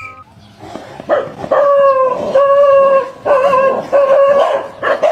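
A dog howling in a run of about five drawn-out notes at a fairly steady pitch, with short breaks between them.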